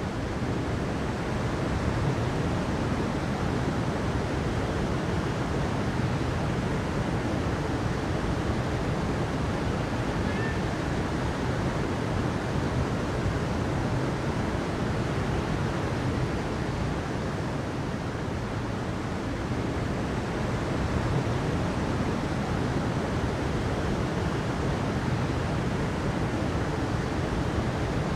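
Steady rushing water, an even, unbroken wash of sound.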